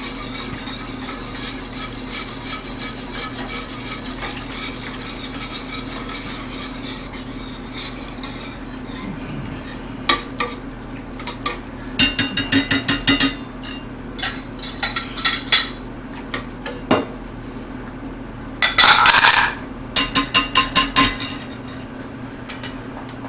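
A metal utensil clinking and scraping against a pot or bowl in several quick rattling bursts, each stroke ringing briefly, as hot liquid is stirred into cream to temper it. A steady low hum runs underneath, and the clinking starts about halfway through.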